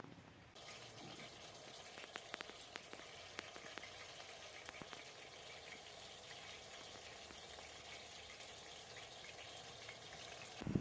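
Food frying in hot oil in a pan, a faint steady sizzle with scattered small pops and spits.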